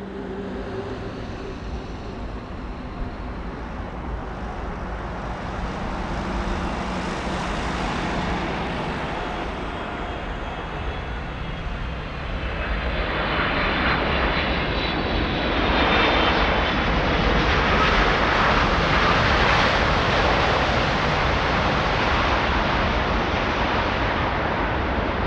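Jet airliner engines running as the aircraft passes, a steady rushing noise that grows louder about halfway through, with a high whine that drops slightly in pitch.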